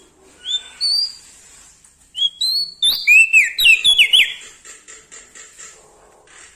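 Small songbird, the prenjak daun of Lombok, singing loud, clear whistled notes: two short notes near the start, then from about two seconds in a fast run of whistles, several sliding down in pitch, ending a little past four seconds.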